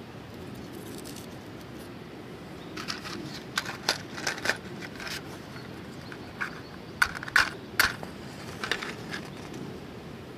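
A scattered run of sharp clicks and light knocks, like small hard objects being handled, over a steady low rushing background; the loudest knocks come about seven to eight seconds in.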